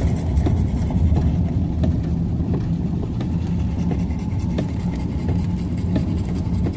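Steady low rumble of a pickup truck heard from inside the cab in rain, with scattered sharp ticks of raindrops striking the truck.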